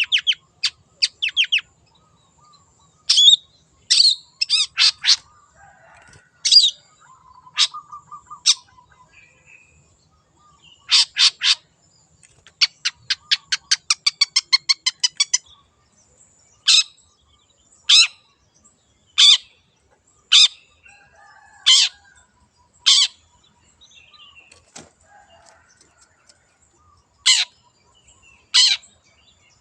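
Long-tailed shrike (cendet) giving harsh, scratchy calls: fast chattering runs of notes, then single rasping notes at about one per second.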